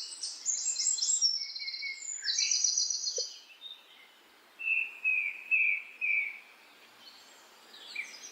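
Songbirds singing: rapid high trills for the first three seconds, then four short, lower whistled notes in a row about halfway through, over faint outdoor background noise.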